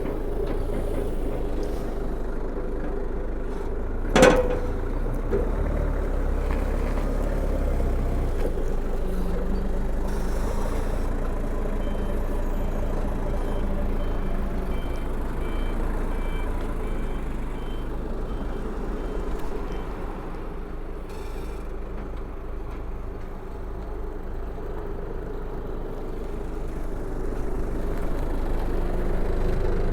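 Forklift running and manoeuvring, with a sharp knock about four seconds in and a reversing alarm beeping about twice a second for several seconds midway.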